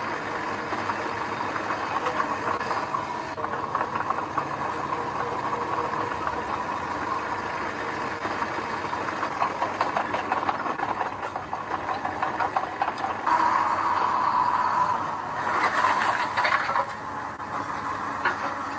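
Diesel engine of heavy construction machinery running, with steady metallic rattling and clanking. It gets louder suddenly near the end.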